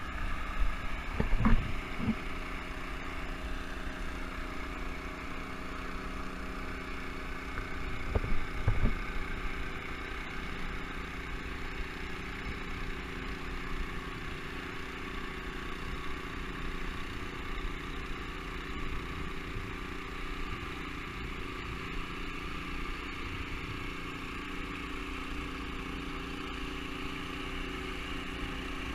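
An engine running steadily at an even speed, with a few knocks in the first couple of seconds and a louder clatter about eight seconds in.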